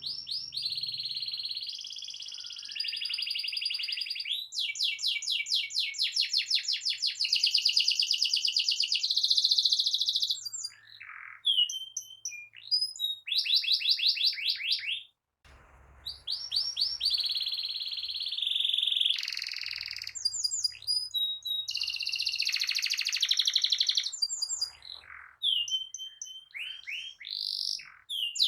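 Domestic canary singing a long rolling song ('ngerol'): rapid trills and rolls following one another without pause, with a brief break a little past halfway.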